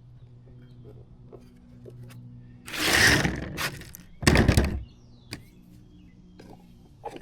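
A rustling scrape about three seconds in, then a heavier thunk a second later, from something being handled and set down, over a steady low hum.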